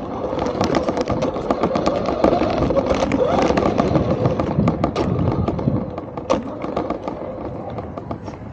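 Remote-controlled toy car driving over rough ground, its wheels and body rattling with many rapid clicks and knocks under a faint motor whine. The sound eases off after about six seconds.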